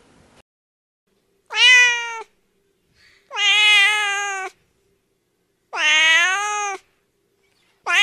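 Domestic cat meowing: three drawn-out meows about a second each, spaced a second or so apart, and a fourth starting right at the end.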